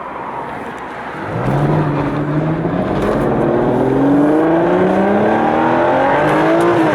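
Aston Martin DBS V12 engine pulling hard under full acceleration, coming in strongly about a second in with its note climbing steadily in pitch, then dropping back at the end as it shifts up.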